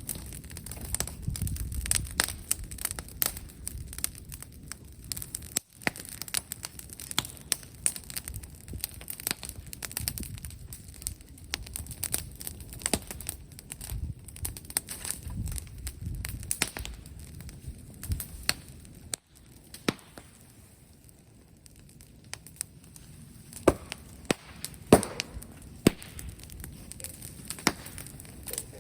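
Brush and bamboo bonfire crackling, with frequent sharp pops and snaps over a low rumble of burning. Louder pops come a few seconds from the end.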